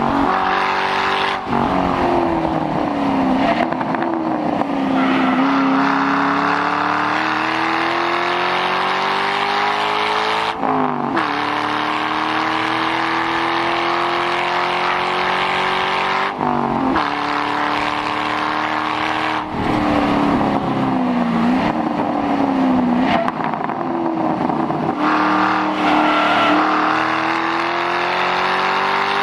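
2006 Mustang GT's 4.6-litre V8 running through a muffler-delete exhaust, loud and raspy under hard acceleration. The engine note climbs steadily for several seconds at a time and drops suddenly a few times, with wavering stretches in between as the car lifts and brakes.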